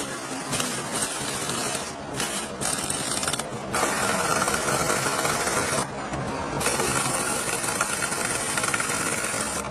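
Machinery running with a dense mechanical clatter and whir, with a few brief breaks.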